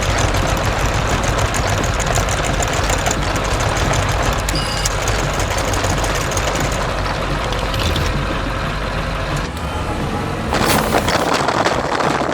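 Heavy truck engine running steadily with a low rumble, with a louder rushing burst near the end.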